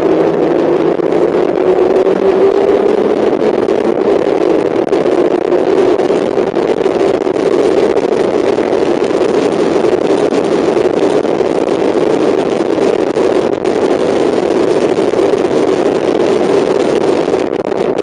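Mazda MX-5 race car's four-cylinder engine running hard on track, heard from on board as a loud, steady drone, its pitch rising slightly over the first two seconds and then holding.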